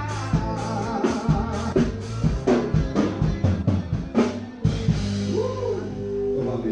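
Forró band playing live: a drum kit beat over bass and keyboard-style held notes. The drums drop out about two-thirds of the way through, leaving sustained chords.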